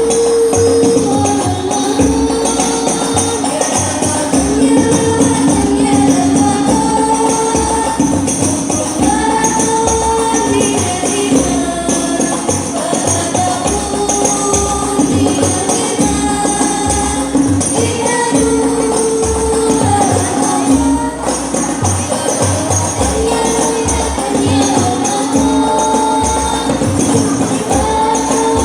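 Banjari devotional music: a sung melody with long held and sliding notes over hand-beaten frame drums (terbang) playing a dense, continuous rhythm.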